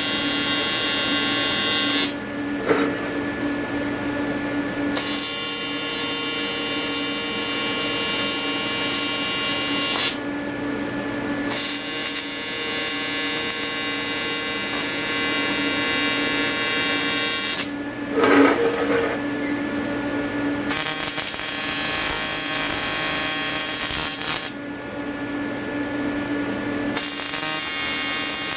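AC TIG welding arc buzzing on aluminium, from an Everlast 325EXT on advanced square wave at about 100 to 150 Hz with pure argon shielding. The buzz runs in stretches of a few seconds and stops four times for two to three seconds each as the arc is broken and struck again.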